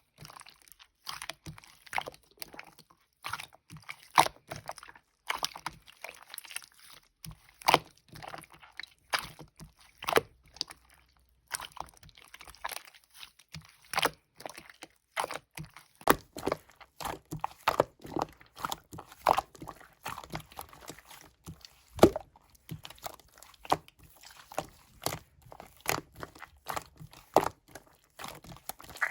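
Toy slime being squished and pressed by hand, making irregular sharp clicks and crackles, several a second.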